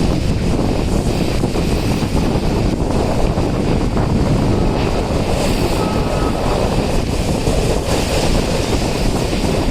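Steady wind buffeting the microphone over the running noise of a moving train.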